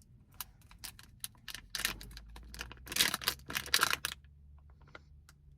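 Rapid sharp plastic clicks and short scraping rustles from opening a container of car-cleaning slime, thickest from about two to four seconds in.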